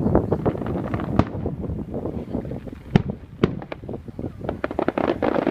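Fireworks exploding in a rapid, irregular run of bangs and crackles over a low rumble, with one sharper bang about three seconds in and a denser crackle near the end.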